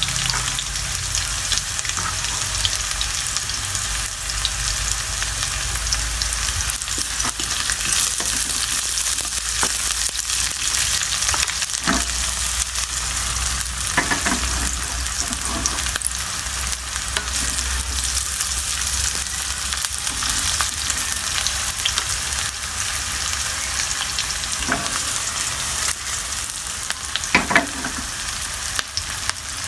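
Sliced garlic and red onion sizzling steadily in hot oil in a wok as they are sautéed to brown lightly. A few brief knocks from stirring come through, the loudest near the end.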